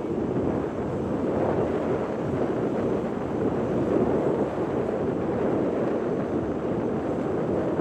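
Steady rumble of wind buffeting the microphone, blended with the running engine of a small car ferry and the sea around it.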